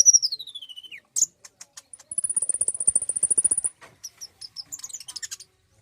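Konin (kolibri ninja, a sunbird) song: a high whistle sliding down in pitch over the first second, a run of sharp ticks, then a long, very high, fast trill of about a second and a half, ending in scattered short chips.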